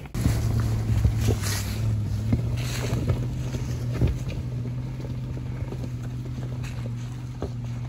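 Off-road vehicle's engine running at a steady low drone, with scattered knocks and clicks over it.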